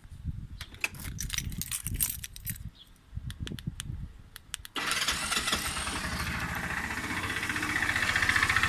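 A Feerik Horse scooter's 150 cc GY6-type (157QMJ) single-cylinder four-stroke engine being cranked with irregular clicks and rattles, catching about five seconds in and then running steadily, growing louder toward the end. The engine has a knock from the generator side, which the owner takes most likely for a faulty starter overrunning clutch.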